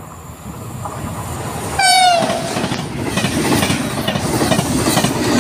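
TGV high-speed train approaching and passing through the station at speed, growing louder, with a short horn blast about two seconds in whose pitch drops as it goes by. After it, the rushing noise of the train with the rhythmic clatter of its wheels over the rail joints.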